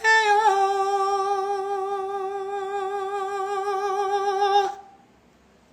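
A man's voice singing unaccompanied, holding one long high note with a slight vibrato for over four seconds before it stops.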